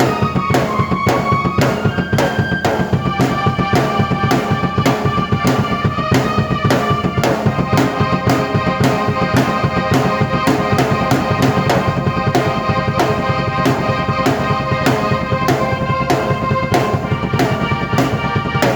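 Drum kit played to a steady, fast beat together with a keyboard holding sustained notes and chords that shift every second or two.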